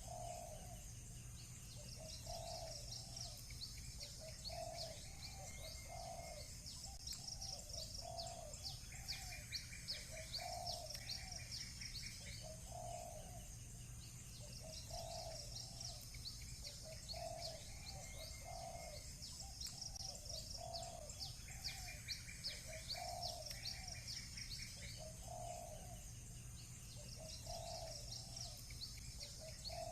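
Village birds calling: short low cooing calls repeat about once a second, while songbirds chirp and trill in high-pitched runs that come and go in bursts of a few seconds. A faint steady low hum sits underneath.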